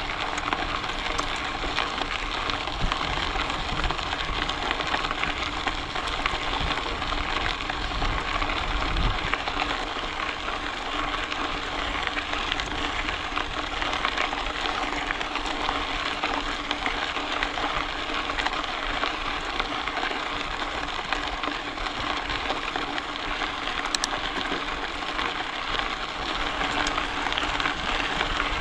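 Bicycle tyres rolling steadily along a rail trail, a continuous crackling hiss.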